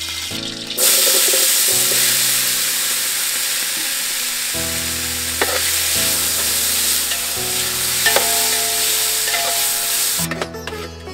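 Chopped tomatoes frying in hot oil in a large aluminium pot: a loud sizzle starts about a second in as they go into the oil and carries on while a ladle stirs them, with a few knocks of the ladle against the pot. Soft background music plays underneath, and the sizzle cuts off near the end.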